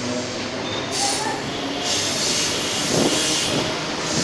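Mumbai suburban electric train running, with a high, steady metallic wheel squeal from about a second in until past halfway, and a few knocks near the end.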